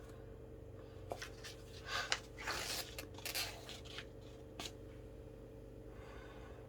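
Paper rustling and a few light clicks, clustered between about one and five seconds in, over a faint steady hum.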